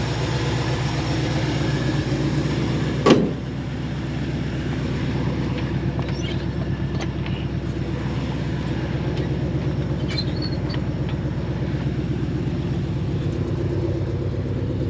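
AMC 304 V8 engine of a 1973 Jeep CJ5 idling steadily and evenly, with no misses. A single sharp knock sounds about three seconds in.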